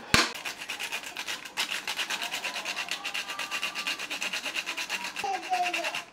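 Quick, even scraping strokes in the kitchen, about nine a second, while a dipping sauce is being prepared. A sharp click comes right at the start.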